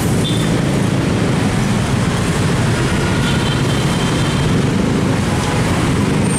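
Steady, loud road-traffic noise from motorcycles and cars running and idling in dense stop-go traffic over a level crossing.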